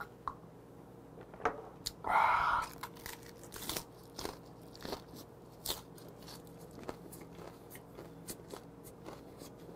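Close-up chewing of a napa cabbage wrap of saury gwamegi with scallion and garlic, with irregular sharp crunches as it is bitten and chewed. A short breath about two seconds in.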